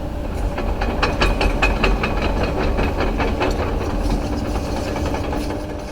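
JCB 3CX backhoe loader's diesel engine running, with a steady low rumble and many irregular clanks and knocks over it; the sound fades out near the end.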